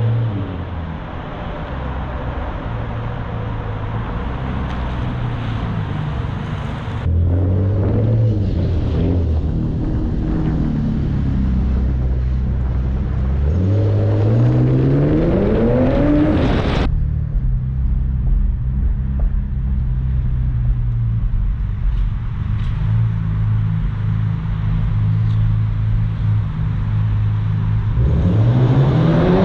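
Cadillac CTS V-Sport's twin-turbo V6 through a muffler-deleted exhaust with the factory X-pipe, in a series of clips. It runs steadily, and its pitch climbs sharply as it accelerates in the middle and again near the end.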